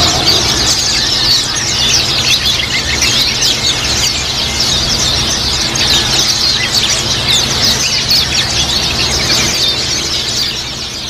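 A flock of white-eyes (pleci) chirping and twittering together, many short high calls overlapping densely, over a steady low hum; the sound fades out near the end.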